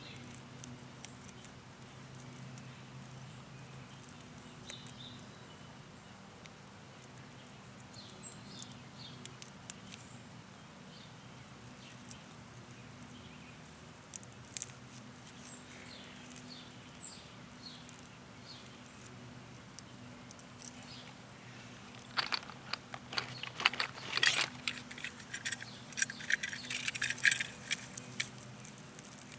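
Rustling and clicking of hands working a potato plant and straw with scissors, in scattered small sounds. About 22 seconds in, and again near the end, comes a denser spell of crackling.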